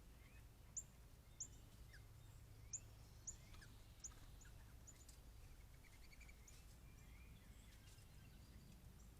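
Small birds calling: short, sharp, high chip notes, about a dozen, coming thickest in the first half, with fainter lower chirps between them, over a faint steady low rumble.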